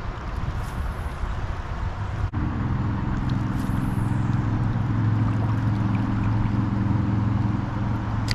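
Steady background noise, then after an abrupt cut about two seconds in, a steady low engine hum.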